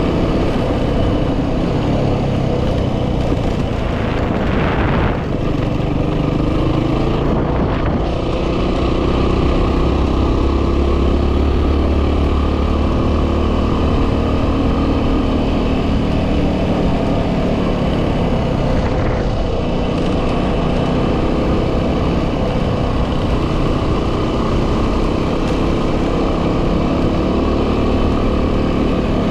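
A Yamaha WR250R's single-cylinder engine running steadily as the dirt bike rides along, with heavy wind noise on the microphone.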